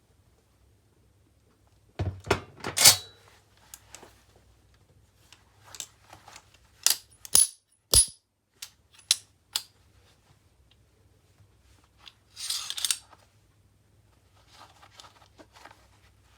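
All-metal firewood tongs clanking as they are handled: a series of sharp metallic clacks and clinks with a bright ring. There is a loud clatter about two seconds in, single crisp clicks a few seconds later, and a brief rattle near the end.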